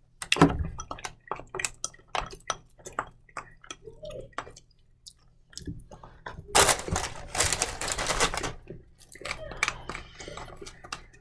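A utensil clinking and scraping in a jar of mustard, with chewing and handling noises. A louder stretch of rustling comes in the middle.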